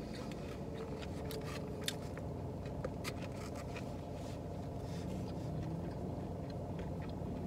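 Chewing food with small sharp mouth clicks and a few light scrapes, over a steady low car-interior rumble.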